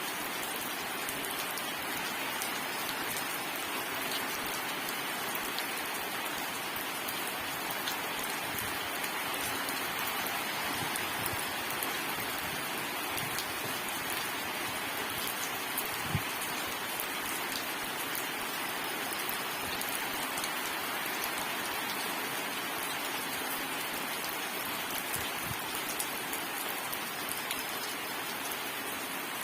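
Steady rain falling and pattering on surfaces, with scattered drops and a single louder drip about halfway through.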